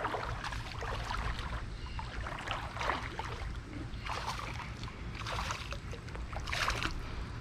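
Shallow creek water splashing and sloshing in irregular bursts as a hooked bass is fought and landed, over the steady sound of the running creek.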